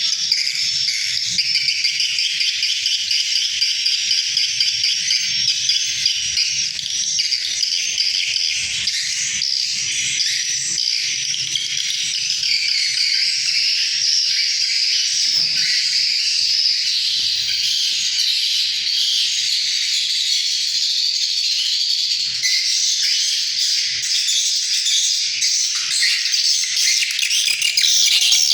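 Edible-nest swiftlets twittering: a dense, continuous chorus of rapid high chirps and trills.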